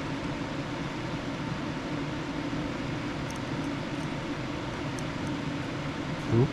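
Steady background hum and hiss of a running fan or air-conditioning unit, with a few faint ticks and a brief low sound near the end.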